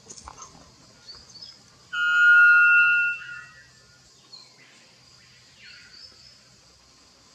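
White bellbird (araponga da Amazônia) giving one very loud, pure-toned call about two seconds in, lasting just over a second. A steady high insect whine and a few faint chirps of other birds run behind it.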